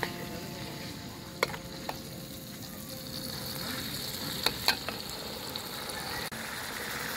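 Chilli sambal paste sizzling in hot oil in a wok as a metal spatula stirs it, with a few sharp clicks of the spatula against the wok.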